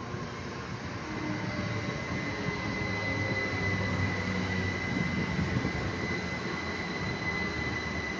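A train moving through a station: a steady rumble with a high, steady whine over it, growing louder about a second in.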